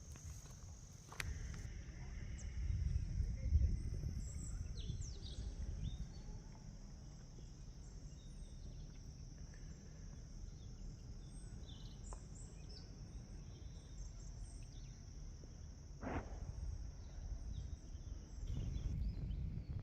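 Outdoor nature ambience: a steady high insect drone that stops shortly before the end, with short scattered bird chirps over it and a low rumble underneath.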